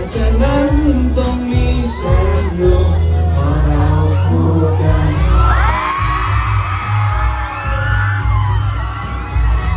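Live pop song playing loud through a PA with heavy bass and some singing, while fans scream in high, drawn-out shrieks, loudest in the middle of the stretch.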